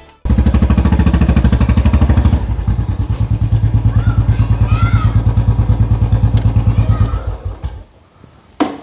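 Royal Enfield 500 single-cylinder four-stroke engine idling with an even pulsing beat, then dying away about seven seconds in, followed by a sharp click near the end.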